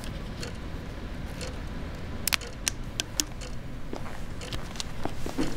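Footsteps on a stage and a shoulder bag being handled: a cluster of four sharp clicks and knocks a little past two seconds in, then softer taps, over a faint tick about once a second.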